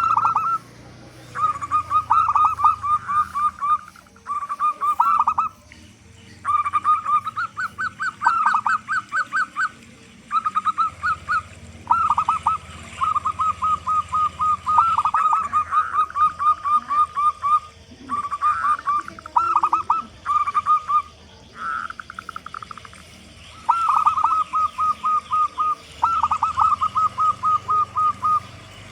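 Zebra doves (perkutut) cooing: rapid series of staccato notes, bout after bout with short pauses between.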